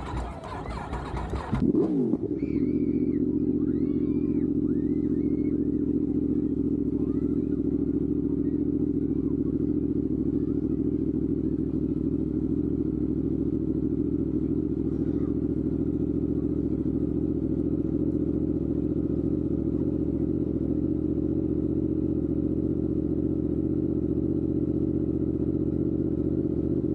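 Motorcycle engine idling steadily with an even low beat. It comes in suddenly about two seconds in, after a short stretch of mixed, noisier sound.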